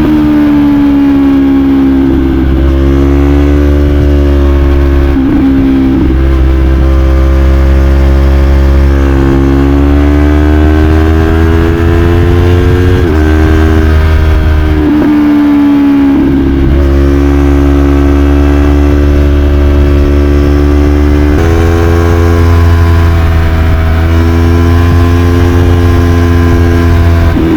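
2022 Yamaha YZF-R3's 321cc parallel-twin engine, breathing through an Arrow Pro-Race slip-on exhaust, pulling hard under acceleration. The revs climb for a few seconds at a time, and the pitch breaks suddenly at each quick gear change, about every three to five seconds.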